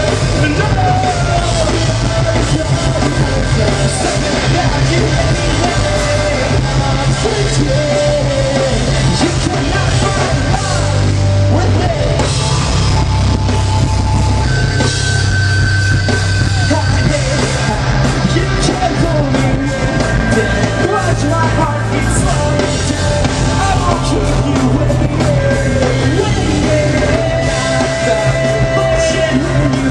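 A live rock band playing loud, with a drum kit, heavy bass and a singer.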